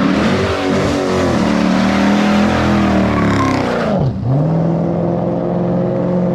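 Straight-piped 5.7 Hemi V8 of a Dodge Charger R/T running loud under throttle, its note climbing; about four seconds in the revs drop sharply and it settles into a steady lower drone.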